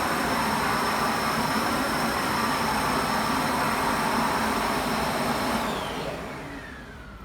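Kärcher WD5 wet & dry vacuum cleaner running steadily with its motor whine, then switched off near the end, the whine falling in pitch as the motor spins down.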